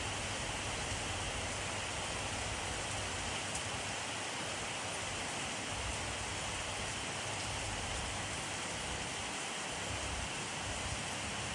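Steady rainfall: an even, unbroken hiss of rain with a faint low rumble that comes and goes underneath.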